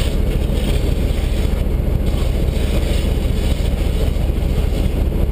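Fire department brush truck engine running, a steady low engine noise without breaks.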